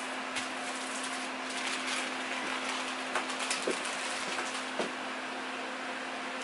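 Leftovers frying in a covered skillet on low heat: a steady sizzling hiss with occasional small pops and crackles.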